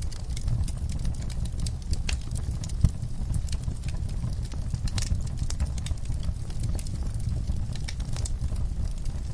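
Wood fire crackling in a fireplace: irregular sharp pops and snaps over a steady low rumble, with one louder pop about three seconds in.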